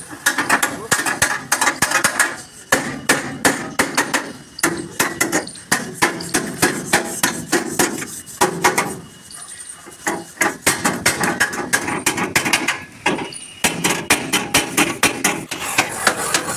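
Hammer blows on the sheet-metal panel of a truck cabin being beaten out to remove a dent: rapid repeated strikes, about three or four a second, with a couple of short pauses.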